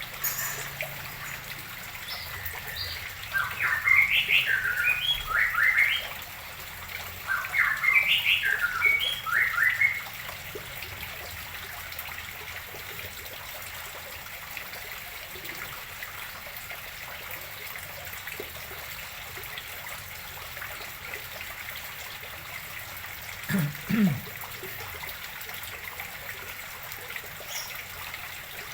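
Water trickling steadily into a fish pond as it is refilled, with a bird chirping in two quick runs of calls in the first ten seconds, the loudest sounds. A brief low sound comes once, well after the birdsong.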